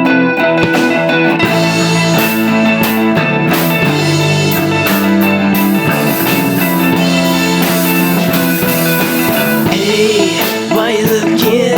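Rock song intro: electric guitar chords with a drum kit, the drums coming in about half a second in after a guitar-only lead-in.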